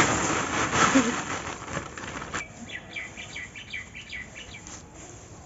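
A burst of rustling noise that stops abruptly, followed by a small bird chirping: a quick run of about a dozen short, high chirps.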